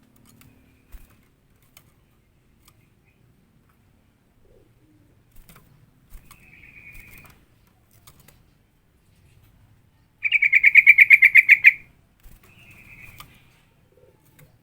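Yellow-vented bulbul (trucukan) calling: a softer call, then a loud rapid chatter of about fifteen quick notes lasting a second and a half, then another softer call.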